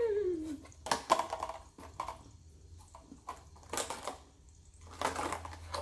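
Crunchy cookies being chewed with the mouth close to the microphone: a handful of separate crisp crunches. A short falling "mmm" is heard at the start.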